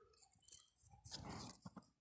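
Near silence, with a faint soft rasp about a second in and two small clicks just after it.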